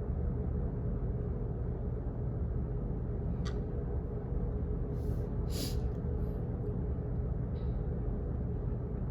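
Office background noise: a steady low hum and rumble, with a few short clicks and rustles between about three and eight seconds in. The loudest is a brief noise a little past halfway.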